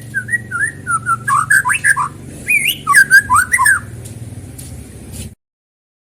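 White-rumped shama (murai batu) singing a run of quick, varied whistled notes that slide up and down, with faint high chirps behind it. The song is played as a trigger sound to provoke a caged shama into singing, and it cuts off abruptly after about five seconds.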